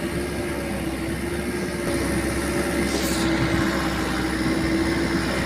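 Loaded dump truck's diesel engine running steadily under a load of bricks, a constant drone with a held mid-pitched tone.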